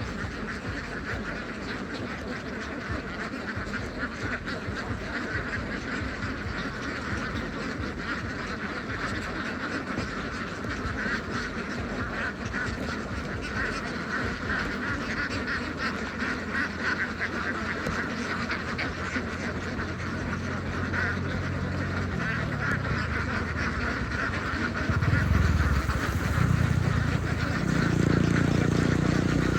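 A large flock of domestic ducks quacking over one another without a break. In the last few seconds a low rumble joins in and grows louder.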